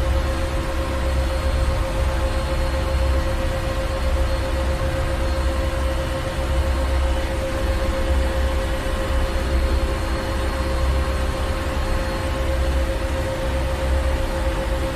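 Ship's engine room machinery running steadily: a deep rumble that swells and eases every few seconds under a continuous mechanical hum with a few steady tones.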